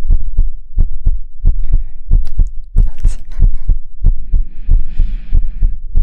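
Soft, quick thumps of a hand patting on the microphone, about three a second, like patting a baby to sleep, with a brief soft hiss about five seconds in.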